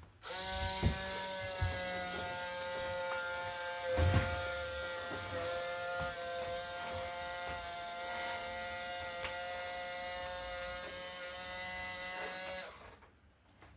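Small electric motor of a drop-down animatronic doll running with a steady whine for about twelve seconds after being plugged in, with a few knocks near the start, then stopping.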